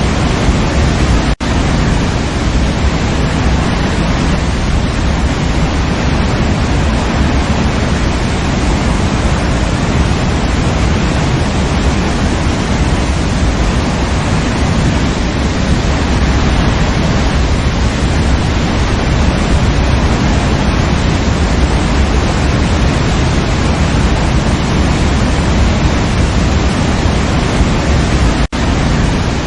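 Waterfall rushing in a steady, full roar of falling water, heaviest in the low end. It breaks off twice for a split second, about a second in and near the end.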